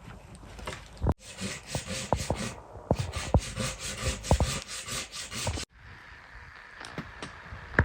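Wood being sawn by hand in quick rasping strokes, with a few sharp knocks in between. The sound cuts off and restarts abruptly twice.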